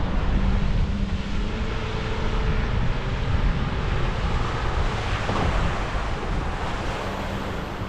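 Wind buffeting an action camera's microphone, a heavy fluctuating low rumble over a steady rush of coastal wind.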